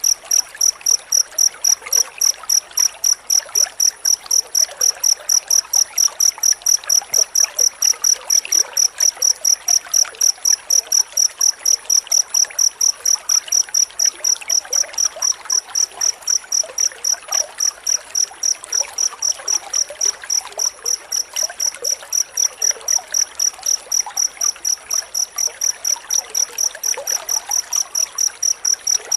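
Cricket chirping in a dense, unbroken run, a high pure pulse at about four chirps a second, with a faint hiss underneath.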